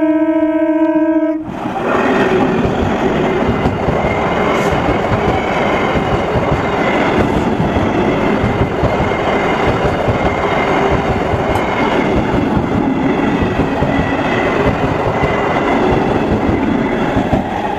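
An Indian Railways EMU local train's horn sounds steadily and cuts off suddenly about a second and a half in. Then the electric multiple unit passes at close range: a steady, loud rumble of wheels on rails with clatter. It eases off near the end.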